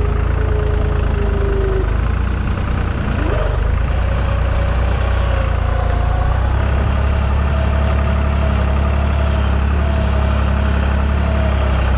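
Deutz 55F tractor's diesel engine running steadily under load while pulling a cultivator through the soil. The engine note dips briefly and picks up again about three seconds in.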